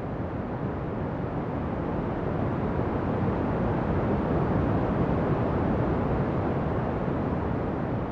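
Ocean surf: a steady rush of breaking waves that swells to a peak about halfway through and then eases off.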